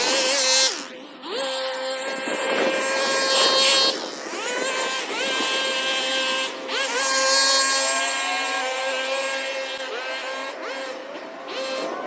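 Small gasoline engine of lawn-care equipment running at high speed, its pitch repeatedly rising quickly and then holding steady as the throttle is worked.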